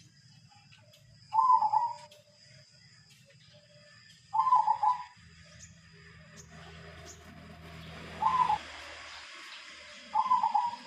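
Zebra dove (perkutut) cooing: four short phrases, each about half a second long, a few seconds apart.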